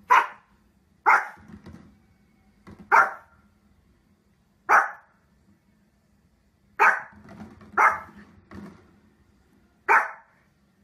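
Small Pomeranian dog barking: seven sharp, high barks, one to two seconds apart at an uneven pace.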